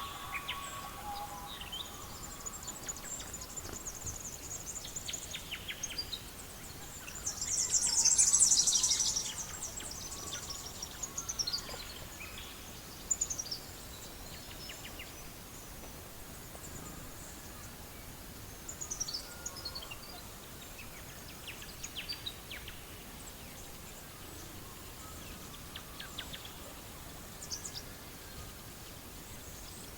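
Small birds chirping and singing in short high calls and brief glides, with a louder, denser burst of song about eight seconds in, over a faint steady hiss.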